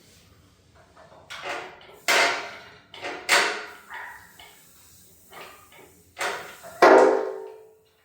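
A run of metallic clanks and knocks from tools and engine parts being handled, irregularly spaced. The loudest comes near the end and rings on for about a second.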